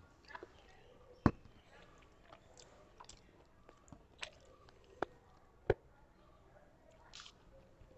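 Mouth sounds of a person eating mutton curry with rice: scattered wet smacks and clicks of chewing, two of them sharper and louder, about a second in and near the six-second mark.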